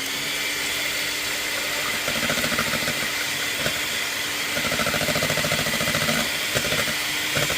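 Electric mixer whisking eggs in a bowl, its motor running at a steady pitch, with a rattle that comes and goes.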